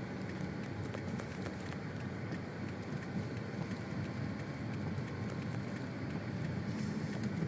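Steady rumble of a car driving on a snow-covered street, heard from inside the cabin: engine and tyres on snow.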